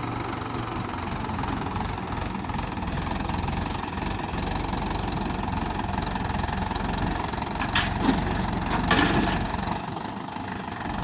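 Tractor engine running steadily, with two short metallic clanks close together near the end.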